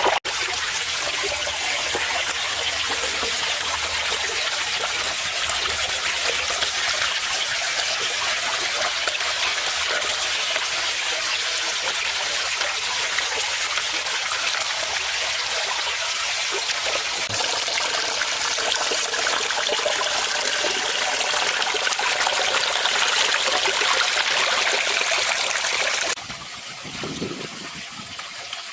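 Water from a small garden pond waterfall splashing and trickling steadily into the pond. Near the end it turns quieter.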